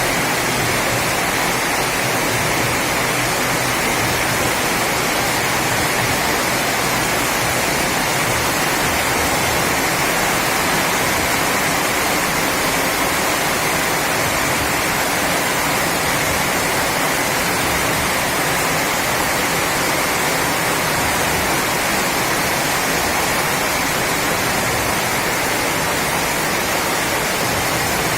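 Steady heavy rain, a dense even hiss that does not let up.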